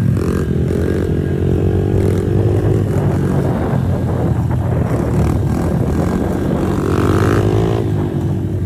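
Small pit bike engine running hard, its pitch rising and falling as it is revved up and eased off several times.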